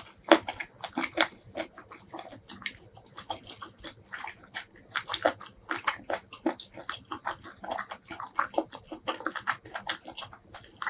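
Close-miked eating sounds of spicy braised seafood: a quick, irregular run of wet chewing, biting and lip-smacking clicks.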